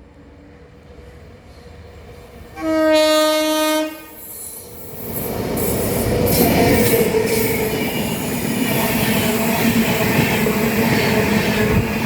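A WAP7 electric locomotive sounds one horn blast about a second long. Its express train then comes up and runs past close by, a loud, growing rumble and rattle of the locomotive and coach wheels on the track.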